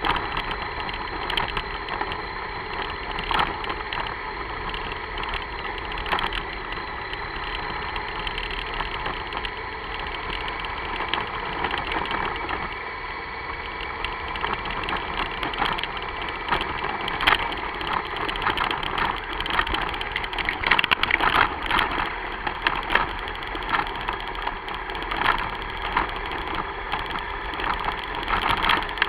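Car engine running steadily, with irregular short louder crackles and knocks over it, thickest a little past the middle.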